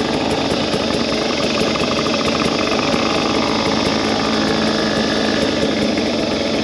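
Two-stroke dirt bike engine running steadily at low revs.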